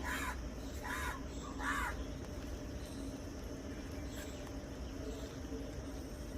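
A pet parrot giving three short, harsh squawks in quick succession, about a second apart, within the first two seconds.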